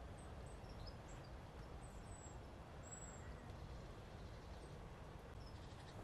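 Faint outdoor ambience: a steady low rumble with a few thin, very high, short bird calls scattered through the first half.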